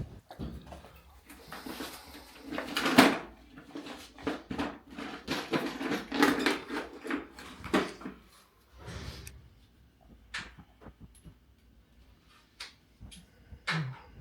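Handling noises: a run of knocks, scrapes and clatter, loudest in a single knock about three seconds in, then a few scattered clicks.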